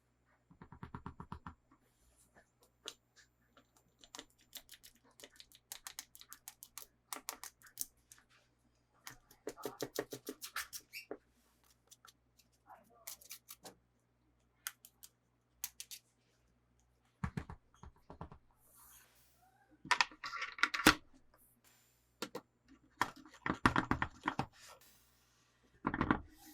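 Hands handling a toy and its plastic packaging up close: scattered clicks and taps, with several short bursts of rapid clicking or rattling, the loudest about twenty and twenty-four seconds in.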